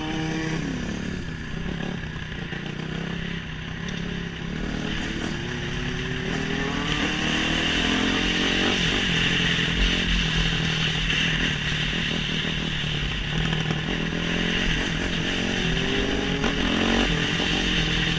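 Motorcycle engine accelerating hard through the gears: its pitch climbs and then drops at each upshift, three times, over a steady rush of wind noise.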